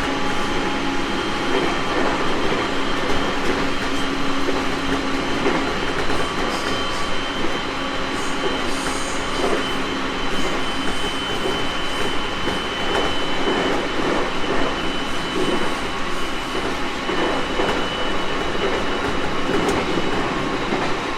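Running noise inside a JR East 701 series electric multiple unit travelling at a steady speed: a constant rumble of wheels on rail with a few steady whining tones from the drive running underneath.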